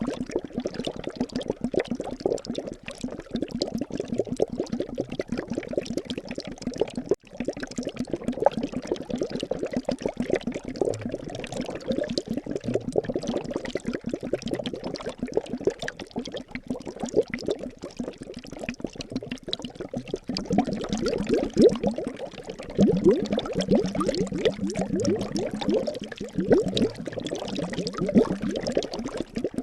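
Liquid bubbling continuously, a dense stream of small bubbles popping with quick rising blips.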